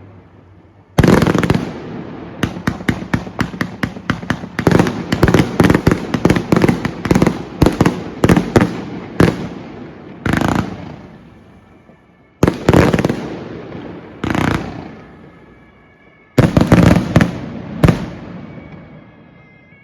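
Fireworks going off: a rapid string of sharp bangs with echoing tails, then a pause and three more separate volleys, each a quick cluster of bangs fading away.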